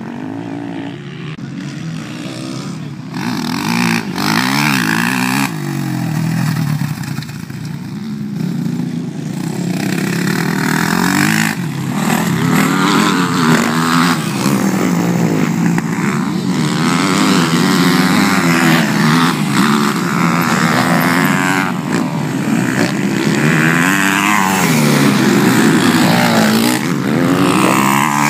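Motocross bike engines revving up and easing off again and again, their pitch rising and falling repeatedly, with more than one engine heard at times. The sound grows louder over the course of it.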